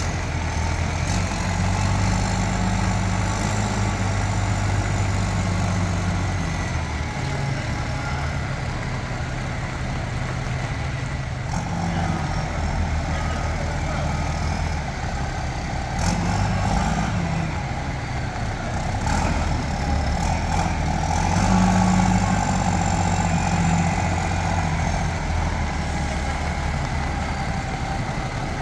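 Diesel engine of a Nippon Sharyo DH408-95M crawler pile driver running, its pitch and loudness shifting up and down several times, with a few short clicks.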